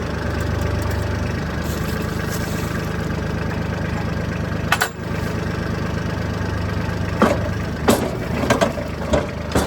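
Kubota tractor's diesel engine idling steadily, with a sharp knock about halfway through and a run of four or five sharp knocks near the end.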